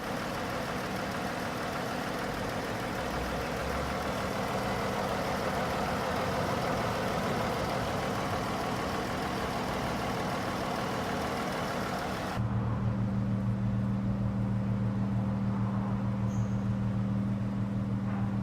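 Dodge Charger V6 engine running at idle. About twelve seconds in the sound changes abruptly from a broad, hissy engine noise to a steadier low hum.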